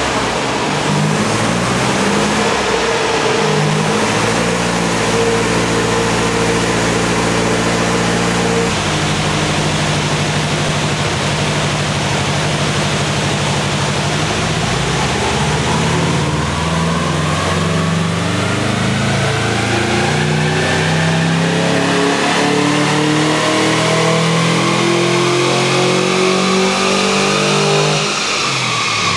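VW-based dune buggy's engine run on a chassis dynamometer: running steadily at first, then pulling through the revs in a long rising sweep from about halfway, and cut off shortly before the end.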